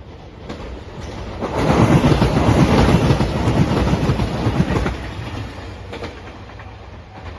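Three-car JR Nanpu limited express diesel train passing at speed over a level crossing: wheels clacking over the rail joints, loudest a couple of seconds in, then fading as it moves away.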